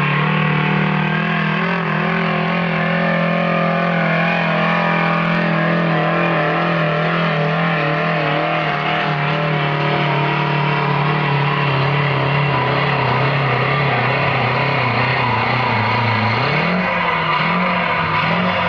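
Competition pulling tractor with a supercharged two-stroke engine, running very loud at steady high revs. The engine note holds its pitch, drops briefly about sixteen seconds in, then climbs again.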